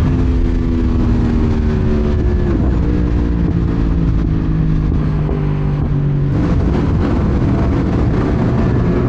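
Sport bike engine under way, its note dropping at the start and stepping lower as the bike slows, then opening up again about six seconds in, over steady low wind rush.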